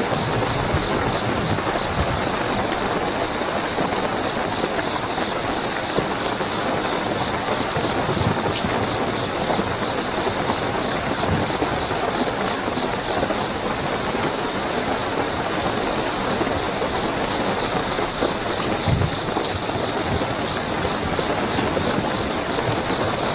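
Steady heavy rainfall with a continuous high-pitched cricket trill over it, and now and then a low thud of a heavy drop.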